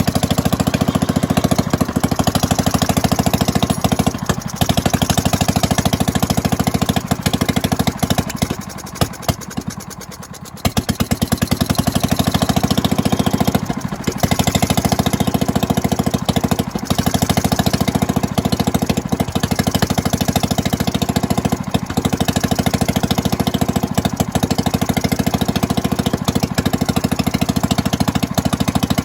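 1932 Fairbanks-Morse Z Style D 'salt block' single-cylinder engine, throttle governed, running steadily with an even, rapid chuffing beat. Its running drops off and thins out for about two seconds near the middle, then comes back sharply to full strength.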